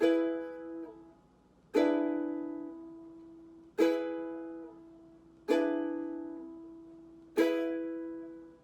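Ukulele chords strummed one at a time, five strums about two seconds apart, each struck sharply and left to ring out and fade; the first is damped after about a second.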